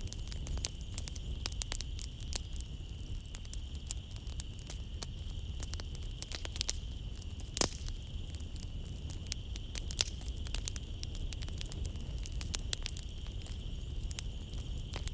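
Wood fire crackling in a fireplace: irregular sharp pops and snaps, the loudest about halfway through, over a low steady rumble. A steady high-pitched note of night insects runs underneath.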